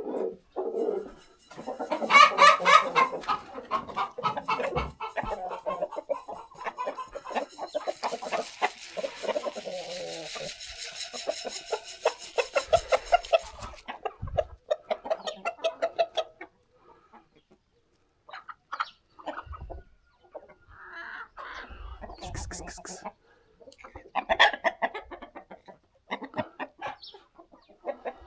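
Chickens clucking: dense, busy calling with a high hiss over it for the first half, then scattered clucks with short quiet gaps between them.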